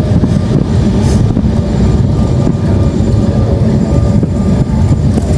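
Steady, loud low rumble of a jet airliner heard inside the passenger cabin during descent: engine and airflow noise with a few faint clicks.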